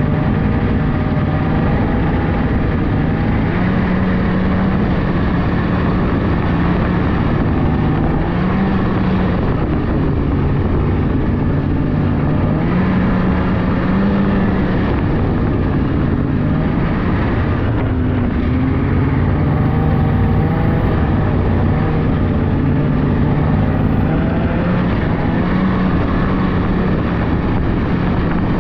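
Polaris 600cc two-stroke snowmobile engine running under way, its pitch rising and falling a little with the throttle.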